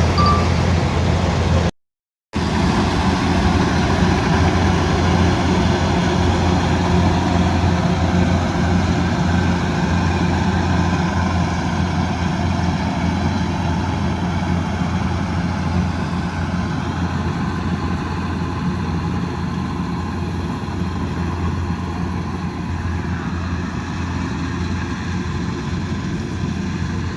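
Kubota DC108X combine harvester's engine running steadily, a low, even drone. The sound cuts out completely for about half a second, about two seconds in.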